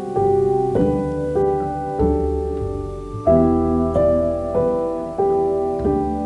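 Background piano music: slow chords struck about every half second to a second, each left to ring and fade.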